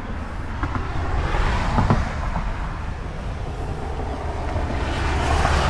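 Wind buffeting the microphone over a steady low vehicle rumble.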